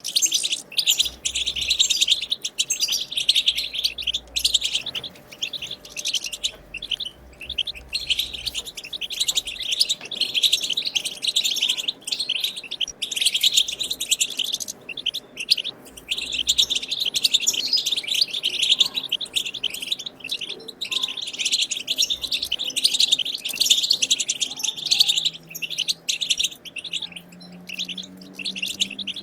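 European goldfinch song: a fast, tinkling twittering chatter in long runs broken by short pauses.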